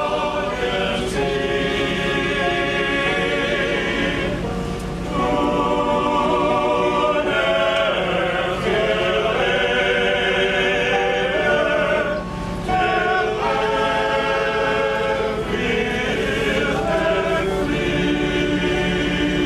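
A male chorus singing in long phrases, with short breaks about four and twelve seconds in.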